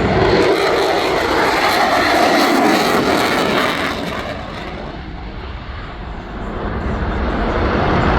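Aircraft engine noise from an airplane flying past, loud at first, easing off from about four seconds in and building up again near the end.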